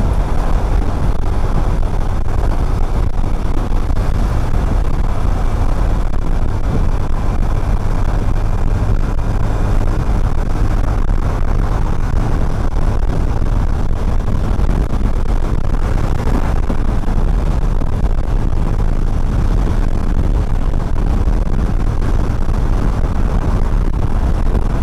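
Steady wind rush on a neck-mounted action camera's microphone while riding a motorcycle at road speed, with engine and tyre noise mixed underneath.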